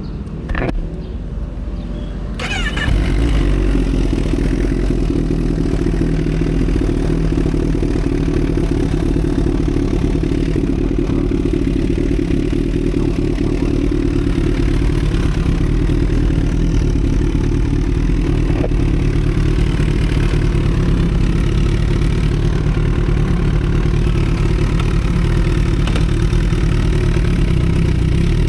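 2012 Kawasaki Ninja ZX-10R's inline-four engine starting up about two and a half seconds in, then idling steadily.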